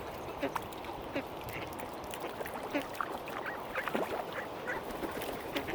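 Mallard ducks quacking, many short calls overlapping.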